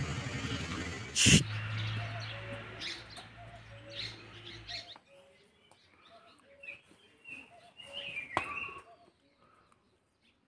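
Small birds chirping in short calls, over a steady low hum that cuts off about five seconds in. A loud sharp click comes about a second in, and a smaller one near the end.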